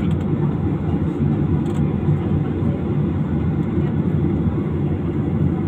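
Steady low rumble of an airliner heard from inside the cabin after landing, even and unbroken.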